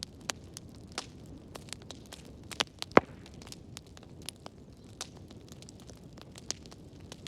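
Wood fire burning in a fireplace: irregular sharp crackles and pops over a low steady rumble of the flames, with one loud pop about three seconds in.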